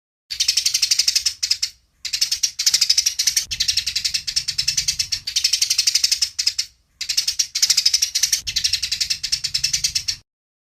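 Eurasian tree sparrows giving rapid, chattering chirps in bursts of one to two seconds with short breaks between, an agitated fighting chatter; the chirping stops shortly before the end.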